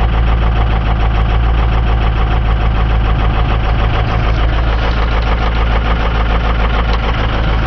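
Ford 6.0 Power Stroke V8 turbo-diesel idling steadily with an even, rapid diesel clatter, still cold about forty seconds after a 30-degree start. The truck is stock with a failing fuel injection control module (FICM).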